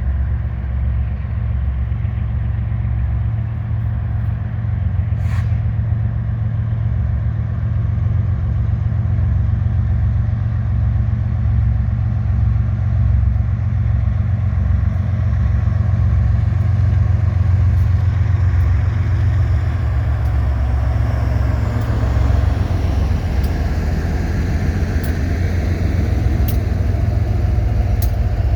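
Diesel locomotives of a manifest freight train running, a loud steady low engine drone from several units at once, with rolling wheel-and-rail noise building in the last third and a few sharp clicks near the end.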